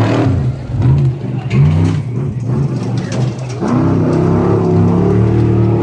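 Off-road desert race truck engine revving hard, the pitch swinging up and down over the first two seconds. After a brief dip past the middle, the engine note climbs and holds under full throttle.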